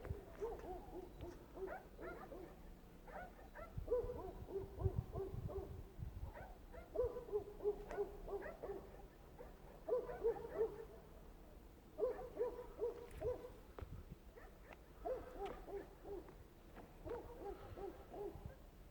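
Repeated animal calls in short series of quick low notes, several series every few seconds and overlapping, as from more than one caller.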